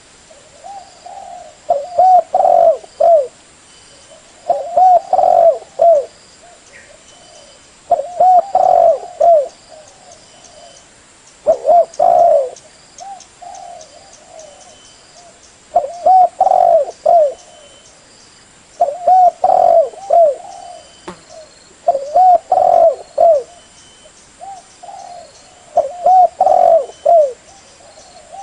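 Spotted dove cooing: a short phrase of several throaty coos, repeated about every three seconds, nine times in all. Faint high chirps sound behind it.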